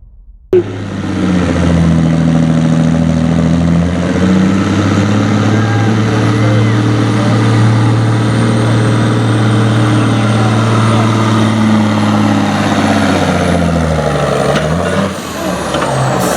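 Semi truck's diesel engine running hard under load while pulling the sled, its pitch held nearly steady, then falling away near the end as the throttle comes off.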